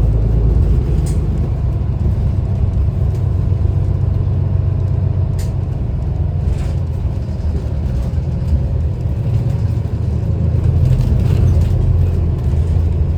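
Steady low engine and road rumble of a city bus in motion, heard from inside the cabin, with a few short clicks or rattles.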